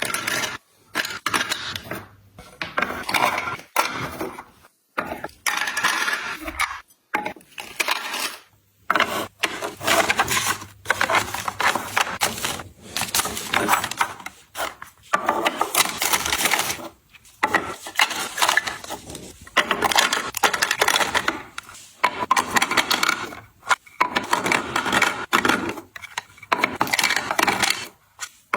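Small hard items clattering and clinking as they are handled and set into place, in repeated bursts of a second or two with short pauses between.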